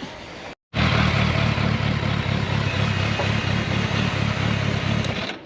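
Motorcycle engine running on the move, with a steady rushing noise over it. It cuts in suddenly after a moment of silence about half a second in and drops away just before the end.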